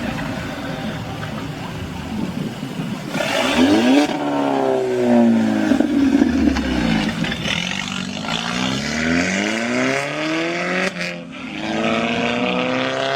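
Modified car engines revving and accelerating hard as the cars pull away, the engine note climbing steeply about three seconds in, dropping, then climbing again twice more.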